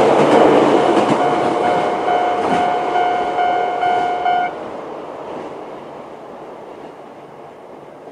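Chichibu Railway 7800 series train running past over the rails, its noise fading as it moves away. Over it the level crossing's warning alarm, an older-type sound with a fast tempo and high pitch, rings in rapid repeated strokes and cuts off about four and a half seconds in.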